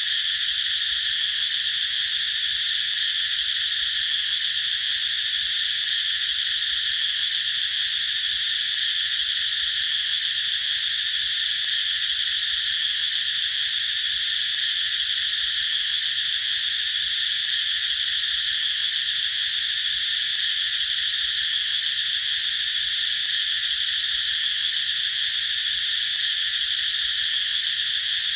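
Cicadas singing in an unbroken chorus, a steady high-pitched drone.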